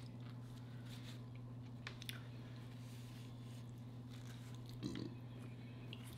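Faint chewing and mouth sounds, with a few small clicks, over a steady low hum.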